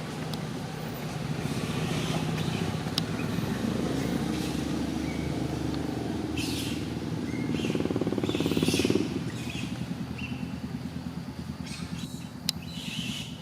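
A motor vehicle's engine running steadily, growing louder until about nine seconds in, then dropping back.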